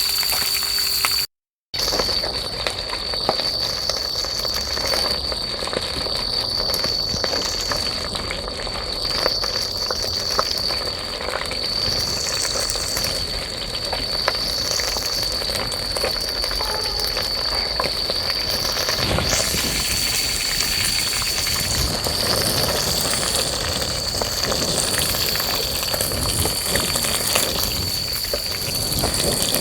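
Steady high-pitched insect trill over a continuous hiss with small scattered crackles. The sound drops out briefly about a second and a half in.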